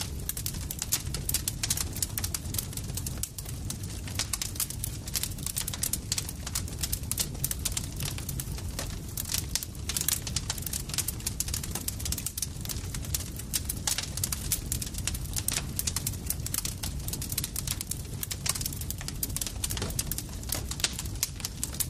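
Campfire crackling: a dense, continuous run of sharp pops and snaps over a steady low rumble.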